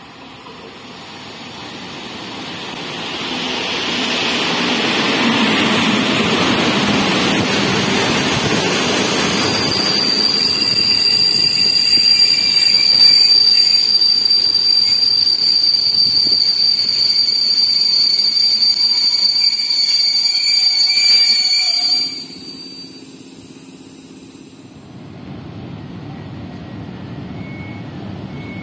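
An EU07 electric locomotive and its passenger coaches draw in alongside the platform, the rolling noise building over the first few seconds. From about ten seconds in, a high, steady brake squeal rings over the wheels as the train slows, then stops abruptly. In the last few seconds a TEM2 diesel shunting locomotive's engine rumbles.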